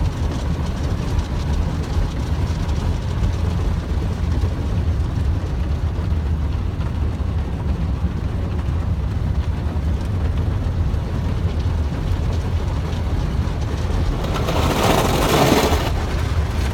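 Automatic car wash heard from inside the car: a steady low rumble from the wash machinery. A louder rushing noise swells for about a second and a half shortly before the end.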